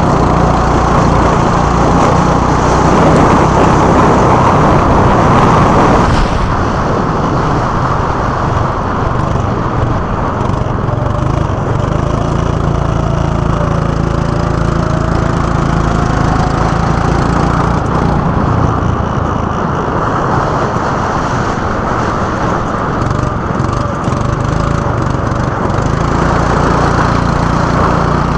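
Go-kart engine noise running continuously, with its pitch gliding up and down as the throttle changes; it drops a little about six seconds in.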